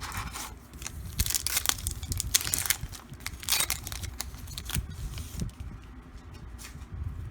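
A foil trading-card pack wrapper being torn open and crinkled, in several rough ripping bursts over the first four seconds.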